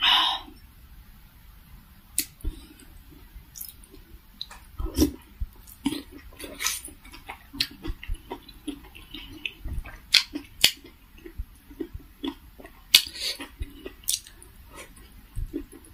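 Close-miked chewing and wet mouth sounds of a person eating steamed vegetable momos dipped in tomato chutney: a steady string of short clicks and squishes.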